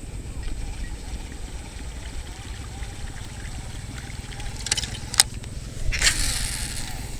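Strong wind rumbling on the microphone, with a few sharp clicks about five seconds in and a short hissing rush of noise about six seconds in.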